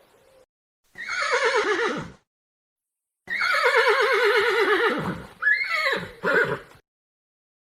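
Horse whinnying: a short whinny falling in pitch about a second in, then a longer, trembling whinny that drops in pitch, followed by two short calls.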